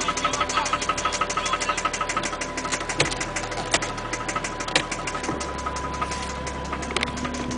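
Toyota 1JZ straight-six engine running with a rapid, regular knock, sign of a worn connecting-rod bearing. The knocks come quickly at first and gradually slow as the revs fall, with a few louder clicks.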